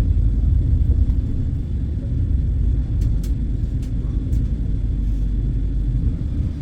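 Vande Bharat Express running at speed, a steady low rumble heard from inside the coach, with a few faint clicks about halfway through.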